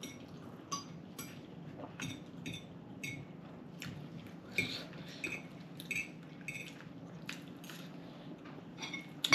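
Cutlery clinking against plates and bowls while eating: light, irregular clinks with a short ring, about one or two a second, and a louder clink near the end.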